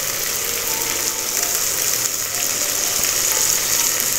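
Onions, green chillies and ginger-garlic paste frying in ghee in an aluminium pressure cooker, with a steady high sizzle.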